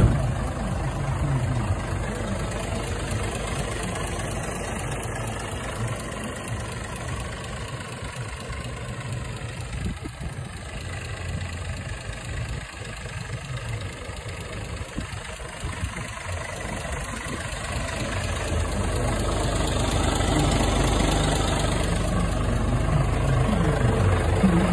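Scania S500 truck's diesel engine running steadily with a low hum, growing louder over the last several seconds.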